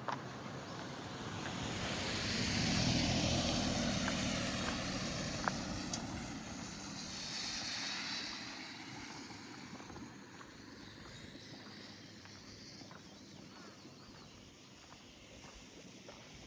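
A motor vehicle passing by, rising to its loudest about three seconds in and fading away by about ten seconds.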